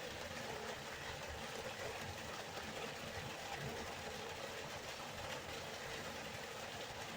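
River water flowing steadily, an even rushing wash with no breaks.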